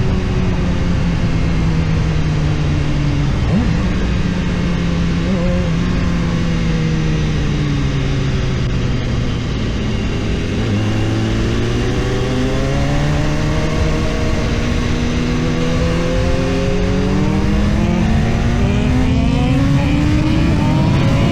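BMW S1000RR inline-four engine under way: its pitch eases down for about ten seconds as the bike slows, then climbs steadily as it speeds up again, over a constant rush of wind noise.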